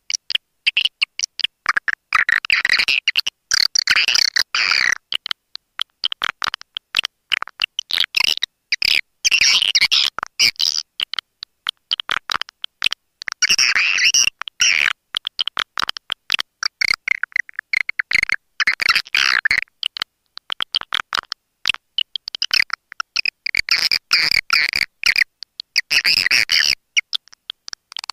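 Swiftlet lure call recording: dense, rapid chattering chirps and clicks of swiftlets in clusters a second or few long, broken by abrupt short gaps.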